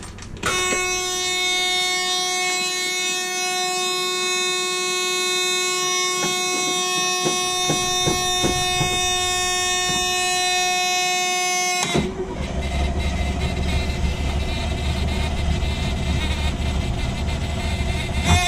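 Inside a 1984 Chevy B60 school bus, a steady electric warning buzzer sounds with the key on for about eleven seconds. About twelve seconds in it cuts out as the starter cranks the cold 366 gas V8 with a rough, uneven rumble for about six seconds without it catching, and the buzzer comes back on when cranking stops.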